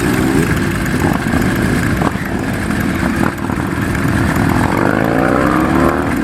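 Kawasaki KZ1000 Mk II's air-cooled inline-four running through a Nitro Racing megaphone exhaust, a steady, loud idle with a slight rise in revs near the end.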